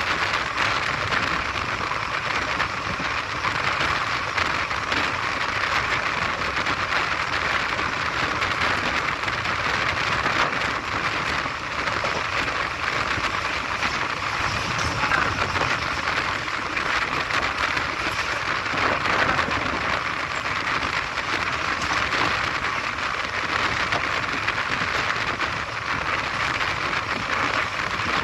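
Steady rushing noise of a passenger train running at speed: wind and wheel-on-rail noise heard from the open doorway of the moving coach.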